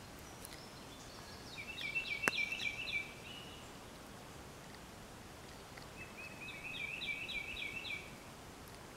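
A songbird singing twice, each song a quick run of repeated high notes lasting about a second and a half, over faint outdoor background. A single sharp click sounds about two seconds in.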